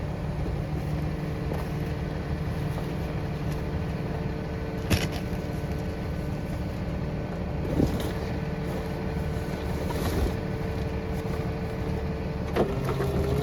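Rear-loader garbage truck idling steadily, with a few sharp knocks of bins or material against the hopper. Near the end a rising whine begins as the packer hydraulics speed up.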